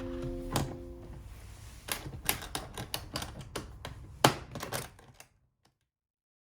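Guitar music fading out, then a run of irregular sharp clicks and knocks, the loudest about four seconds in, before the sound cuts off.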